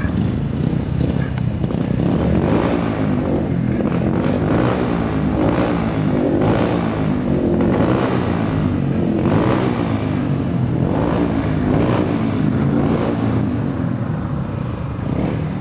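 Speedway motorcycle's single-cylinder engine running loudly and being revved up and down again and again, each rev swelling and falling back roughly every one to one and a half seconds.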